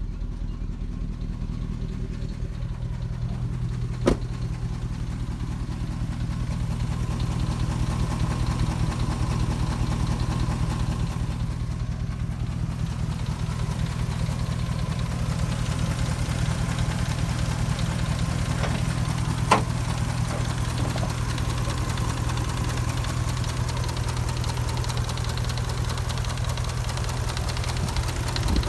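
2004 Dodge Ram 1500's 4.7-litre V8 idling steadily with a fast ticking, on an engine that has a cylinder 8 misfire (P0308) whose cause a shop could not find. Two sharp clicks, one about four seconds in and one a little before the twenty-second mark.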